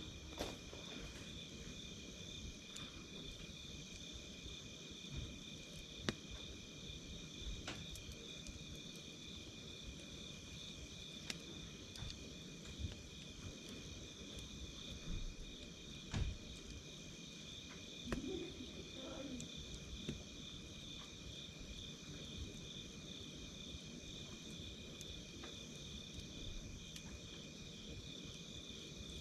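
Night insects chirping steadily in a continuous high pulsing trill, with scattered crackling pops from a wood campfire.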